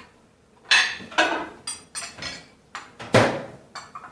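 A string of sharp knocks and clinks as a cooking pot is handled and set back into a microwave oven, with one heavier thud about three seconds in.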